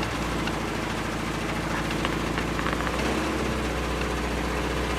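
Car engine idling roughly and unevenly just after a head-gasket job, as it burns off coolant left inside; a large exhaust leak makes it loud.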